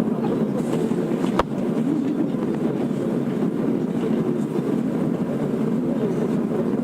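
Steady low rumble inside a Tokyo Metro 02 series subway car standing at a station platform with its doors open, with one sharp click about a second and a half in.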